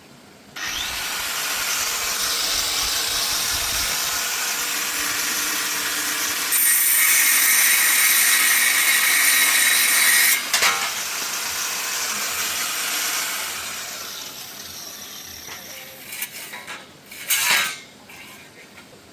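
Power tool starting suddenly and running steadily, growing louder with a high whine for a few seconds in the middle as it works the material. It then drops off sharply and runs on more quietly before fading out, followed by a couple of short scraping noises near the end.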